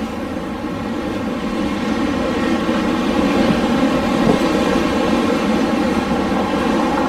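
Wind blowing steadily, a continuous rushing that swells slightly about two seconds in.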